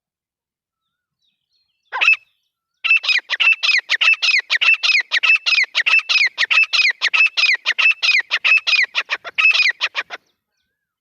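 Grey francolin calling: one short note, then after a brief pause a fast run of repeated calls, about four to five a second, for some seven seconds before stopping abruptly.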